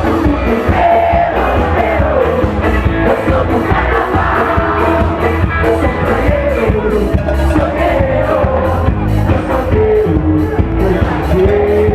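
Upbeat carnival music: a singer over a band with heavy bass and a fast, steady drumbeat.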